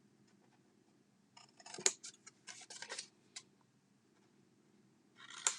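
Scissors snipping paper: a quick run of short cuts, then one more snip near the end, as slits are cut up to the score lines of a paper box lid.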